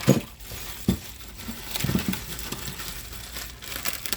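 Crinkling plastic packaging and several sharp knocks and clinks as bagged toilet tank parts are handled and set down.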